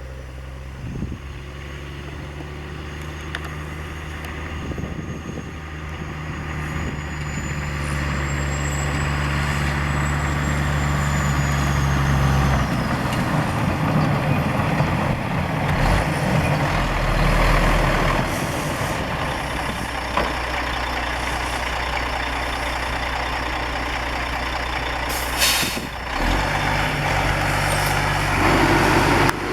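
Heavy six-wheel-drive plow truck's diesel engine running, growing louder over the first several seconds as it draws near. A short hiss comes about 25 seconds in.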